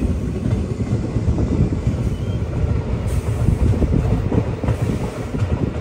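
Passenger train running along the track: a steady low rumble of wheels on rails.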